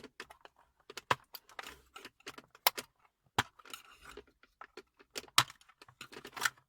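Plastic tabs and clips of a Peugeot 301 / Citroën C-Elysée dashboard air vent clicking and scraping as the vent is pried free of its trim frame: a run of sharp, irregular clicks with short scrapes between them.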